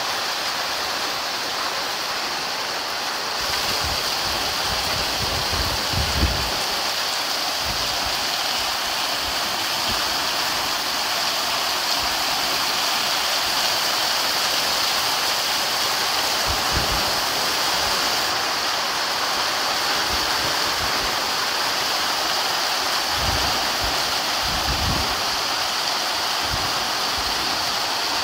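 Heavy rain pouring down steadily, an even rushing hiss of water, with a few low thumps now and then.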